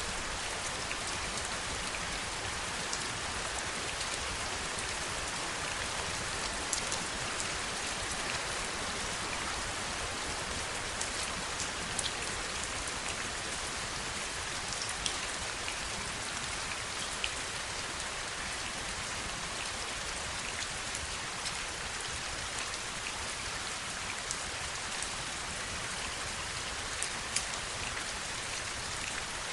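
Heavy rain falling steadily, a dense even hiss with scattered sharp, close drops ticking out of it every second or so.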